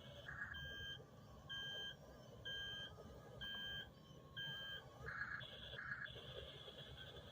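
Remote-control toy bulldozer's electronic sound module giving five evenly spaced beeps about a second apart, like a reversing alarm, over a faint steady hum. Near the end the beeps stop and two short hissy bursts follow.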